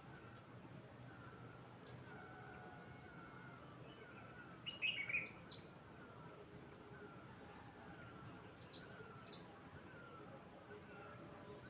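Wild birds singing in short, high, fast-warbling phrases, three in a row a few seconds apart; the loudest is about five seconds in. Under them, a faint, steady series of short softer calls repeats about twice a second.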